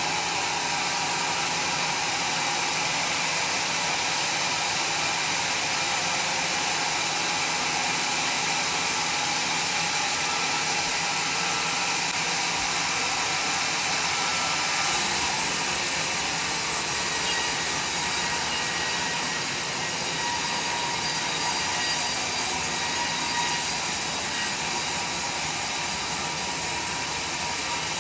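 A sawmill saw running steadily as it cuts through a log: a continuous, loud, high-pitched mechanical noise that shifts slightly about halfway through.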